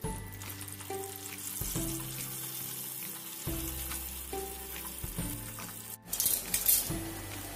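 Tempeh slices frying in hot oil in a frying pan, with a steady sizzling that becomes louder after about six seconds. Background music with a simple melody plays along.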